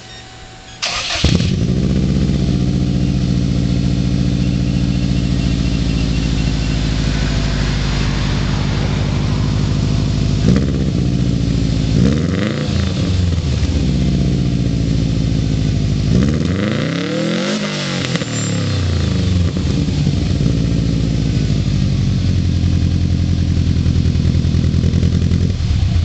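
2004 Subaru WRX's turbocharged flat-four, breathing through an Apexi GT Spec exhaust, catches after a brief crank about a second in and settles into an idle rumble. It is revved twice, briefly about twelve seconds in and longer about seventeen seconds in, each time rising and falling back to idle, and it is shut off near the end.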